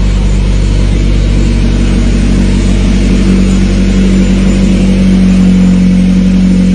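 Honda Civic with a swapped-in H22 2.2-litre DOHC VTEC four-cylinder, running steadily at idle with a steady low drone that strengthens slightly partway through. It is "loud as hell" through an exhaust that is awaiting proper repair at a muffler shop.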